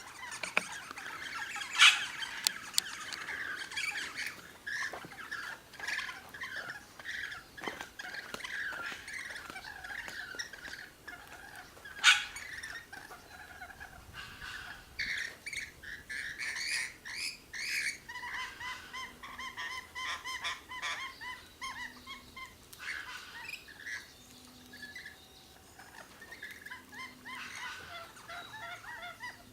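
A group of noisy small birds chattering and calling while they feed, their calls coming in quick runs, with two sharp clicks, about two and about twelve seconds in.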